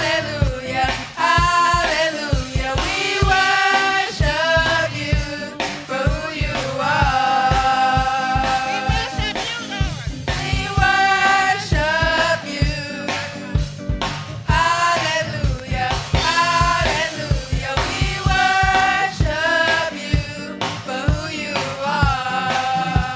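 Church choir singing a gospel song, with band accompaniment keeping a steady beat underneath.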